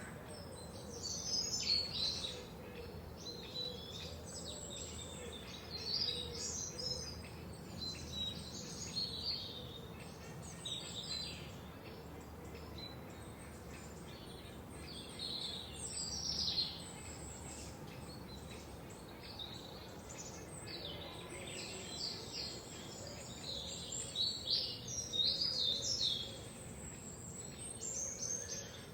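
Several songbirds chirping and trilling, short high phrases in clusters that come and go, with the loudest bursts near the start, about a third of the way in, and near the end, over a steady soft background hiss.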